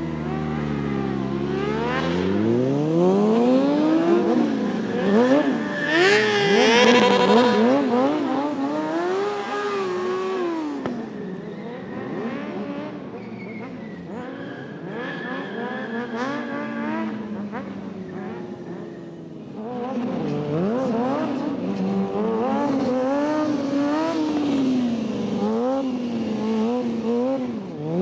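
Motorcycle engine revving hard, its pitch sweeping up and down again and again, highest and loudest about a quarter of the way in.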